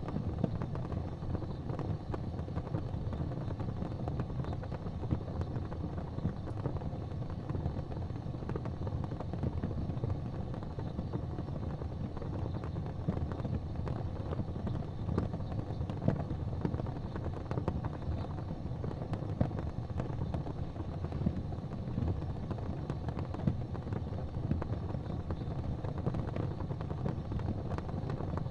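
Wood fire burning in a fireplace: a steady low rumble of the flames with scattered crackles and pops, one sharper pop a little past the middle.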